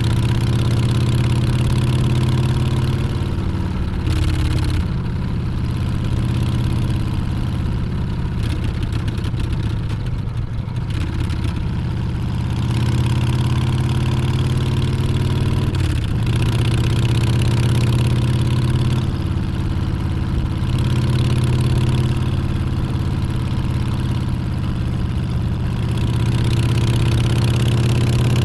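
Harley-Davidson Street Bob's Milwaukee-Eight 114 V-twin running under way, rising in pitch as it pulls and dropping back at gear changes about four seconds in and again near the middle, with wind hiss over it.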